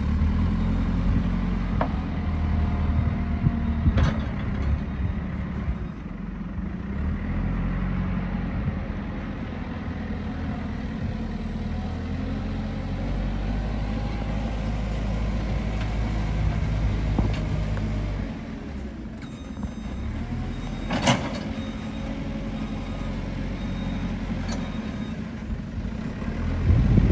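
Heavy diesel engines of recovery machinery running steadily, their note shifting about two-thirds of the way through. A brief sharp sound stands out about 21 seconds in.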